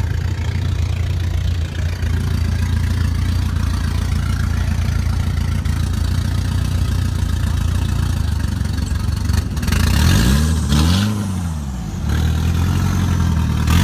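Car engine idling with a steady low drone; about ten seconds in, an engine revs up and back down once.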